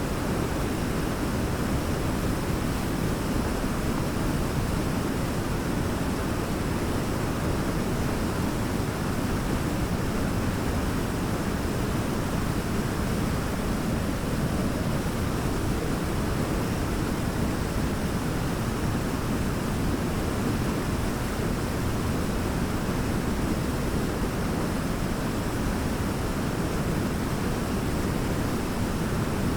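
Large waterfall roaring: a steady, deep rush of falling water with no breaks or changes.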